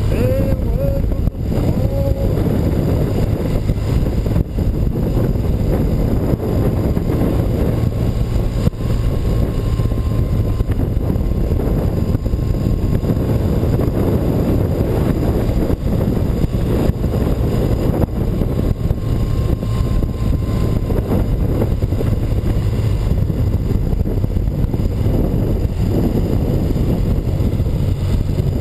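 BMW R100RS motorcycle's air-cooled boxer twin engine running steadily on the move, mixed with wind rushing over the microphone.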